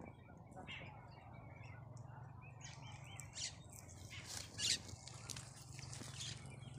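Faint, scattered bird chirps over a low steady hum, with a few soft ticks in the middle.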